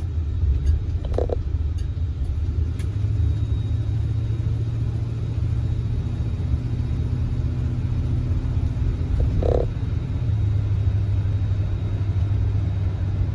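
1971 Oldsmobile Cutlass S's 350 V8 running steadily on the move, a low rumble whose pitch shifts about three seconds in and again near ten seconds.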